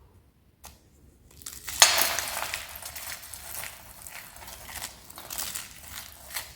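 Crispy soap being crushed, a run of crackling crunches that starts about a second and a half in and is loudest just before the two-second mark.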